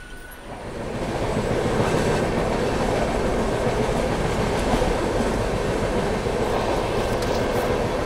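Train running noise, swelling over the first second and a half and then holding steady.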